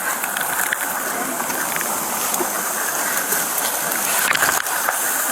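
Steady hiss of rain falling, picked up by a body-worn camera, with a couple of brief knocks about four and a half seconds in.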